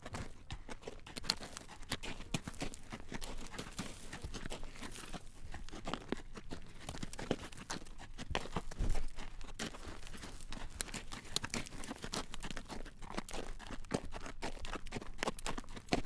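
Horse's hooves clip-clopping on a road at a walk while drawing a carriage: a steady run of clacks, with one louder low thump about nine seconds in.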